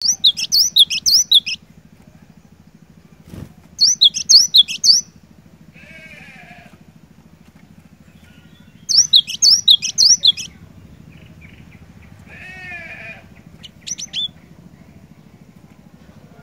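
Cinereous tit (gelatik batu) singing in three loud bursts of quick, sharp, repeated high notes, with softer, lower warbled phrases between them. A steady low hum runs underneath.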